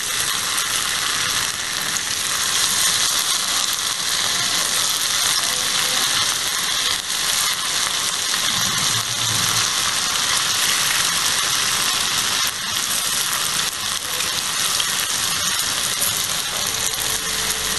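Hot oil sizzling steadily as batter-coated bitter gourd (pavakka) rings are added to the pan one after another and shallow-fry.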